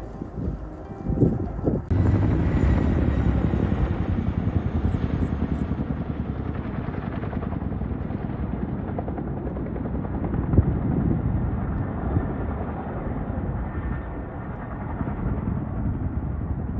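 Helicopter flying, its rotor beating steadily; the sound cuts in abruptly about two seconds in.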